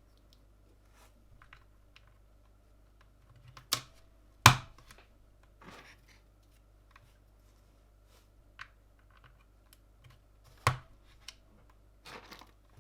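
Scattered sharp plastic clicks and snaps of parts being pressed onto a mechanical keyboard during assembly. Three of the snaps, about four, four and a half and ten and a half seconds in, are much louder than the rest.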